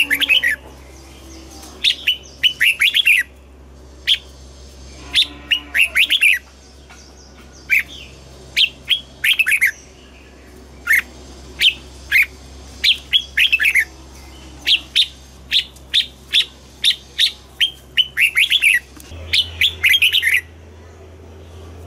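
Red-whiskered bulbul singing: short phrases of several quick, chirpy notes, repeated every second or so with brief pauses between them. A faint steady low hum lies underneath.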